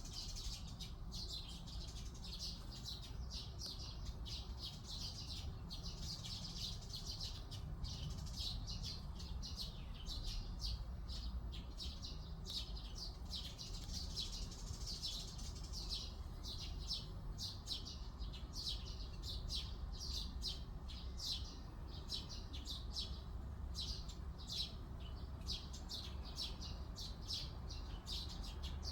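Forest birds chirping and singing, a dense run of short, high chirps that goes on without pause, over a steady low rumble.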